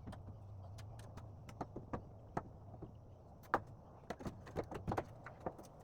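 A run of irregular sharp clicks and light knocks, like small hardware being handled, over a faint low hum that fades after about a second and a half.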